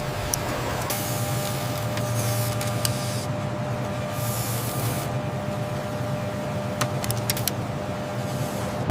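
Steady machinery hum with a low drone, broken by two stretches of hissing a second or two long and a few faint clicks.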